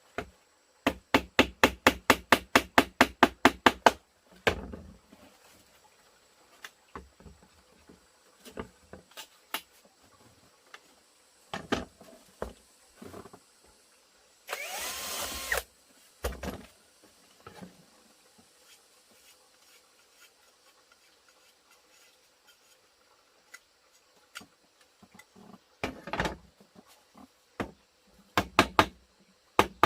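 Construction work on timber: a fast run of evenly spaced strikes, about seven a second, at the start and again near the end, with scattered single knocks between. A short burst of noise comes a little before halfway.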